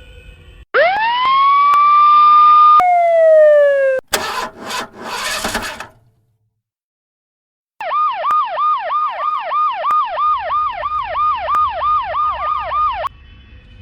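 Electronic police car siren. First a wail winds up and holds, then falls away. About two seconds of harsh, noisy blasts follow, then a short silence and a fast yelp, rising and falling about three or four times a second, which cuts off sharply.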